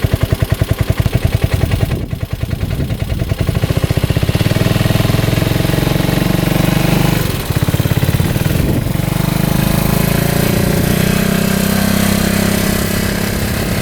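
2015 Polaris Ranger 570's single-cylinder engine, warmed up, idling with an even pulse. About four seconds in it speeds up and runs steadily under load as the UTV pulls away, with a brief let-off of the throttle about halfway through.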